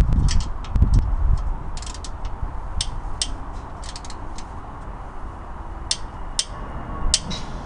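Hand tools clicking and clinking on metal, irregular sharp clicks, while the bolts and clamps of a motorcycle exhaust system are tightened, with a few low thumps in the first second and a half.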